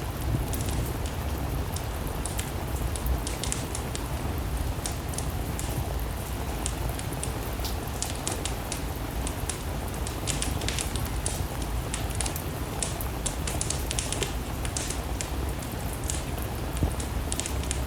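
Steady rain together with a wood-burning fire, with frequent sharp crackles scattered over an even low rush.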